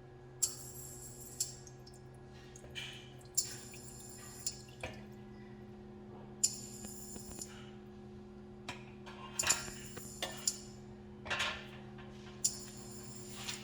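Washing up at a kitchen sink: short splashes of water and clinks of dishes, about one a second, over a steady low hum.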